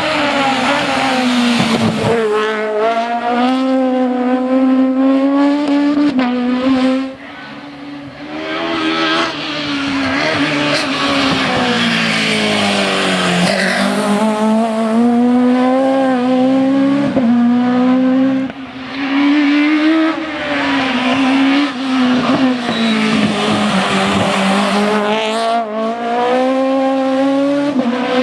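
Rally car engine running hard, its pitch climbing and falling again and again as it accelerates and shifts, with a brief lift off the throttle about seven seconds in.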